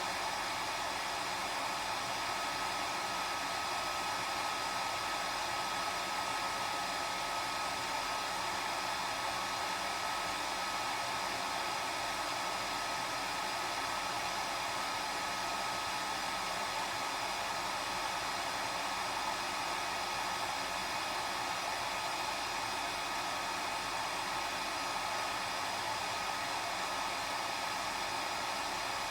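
Hair dryer running continuously at one steady setting: an even rushing blow with a faint steady whine above it.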